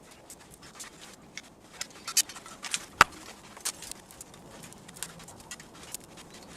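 Scattered light clicks and snaps at irregular intervals, with one sharp crack about three seconds in.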